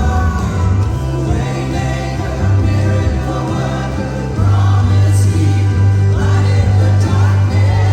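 Live gospel worship music: a choir or congregation singing over a band with a strong bass line, which gets louder about four and a half seconds in.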